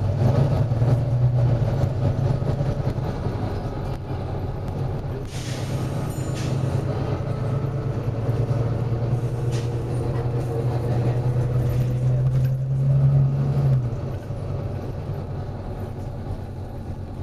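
Volvo B9TL double-decker bus's six-cylinder diesel engine running steadily, with a loud short burst of air hiss about five seconds in and fainter, shorter hisses a little later. The engine note drops a step near the end.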